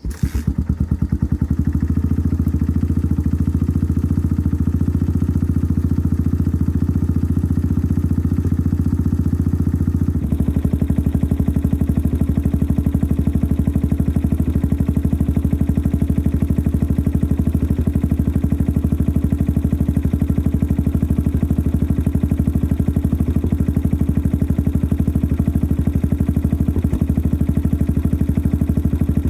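Yamaha XT 600 single-cylinder four-stroke engine idling steadily through a modified stock exhaust, with a noisy mechanical clatter.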